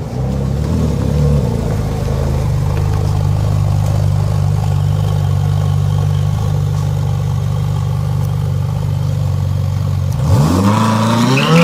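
Ferrari 458 Speciale's naturally aspirated 4.5-litre V8 idling steadily, then a sharp rev about ten seconds in, the pitch climbing quickly.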